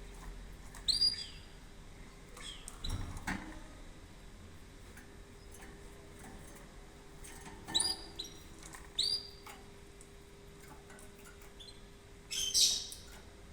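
Canary giving three short chirp calls, each a quick falling note, the first about a second in and the other two close together past the middle, among soft clicks and a brief rustle near the end.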